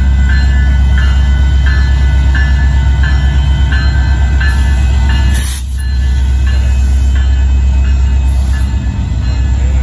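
Union Pacific diesel locomotives running past at close range with a heavy, steady engine rumble, while the grade-crossing warning bell rings about twice a second above it.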